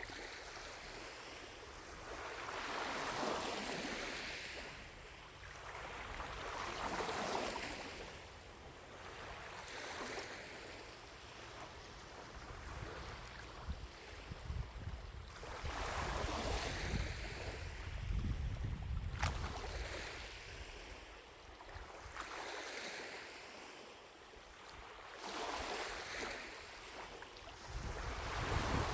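Small lake waves lapping at the shore, swelling and fading every few seconds. Wind rumbles on the microphone at times, most in the middle and near the end.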